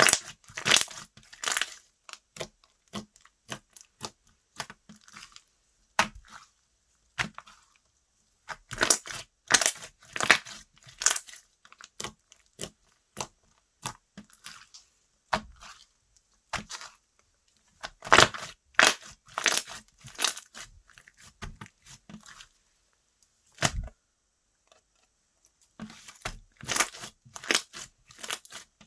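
Hands working slime: bursts of sharp crackling and popping clicks as it is stretched, folded and pressed, with short pauses between handfuls.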